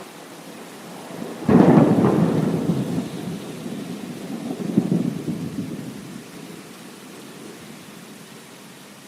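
A thunderclap breaks about a second and a half in and rolls into a long rumble, swelling again a few seconds later before dying away, over steady rain.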